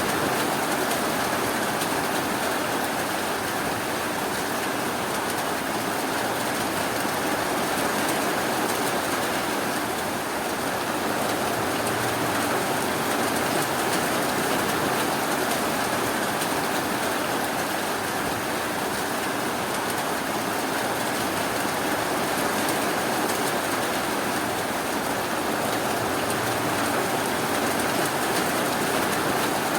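Steady rainfall: a continuous, even hiss with no thunder or other breaks.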